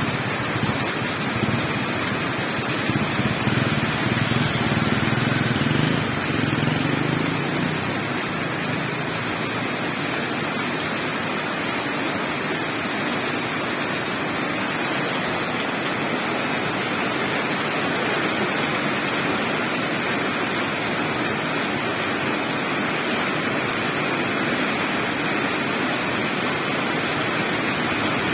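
Steady rush of falling water, an even hiss with no breaks, swelling deeper and louder for a few seconds near the start.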